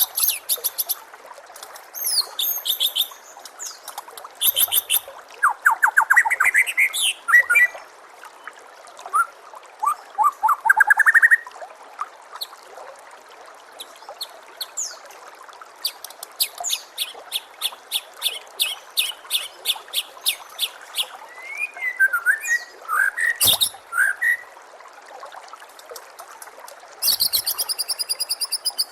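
White-rumped shama (murai batu) singing in a string of separate phrases: fast pulsed trills, some rising in pitch, and high whistles. Running water trickles steadily underneath.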